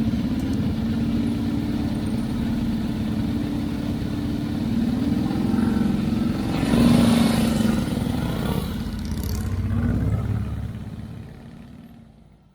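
Vintage motorcycle engine running, swelling as it revs about seven seconds in and again around ten seconds, then fading away near the end.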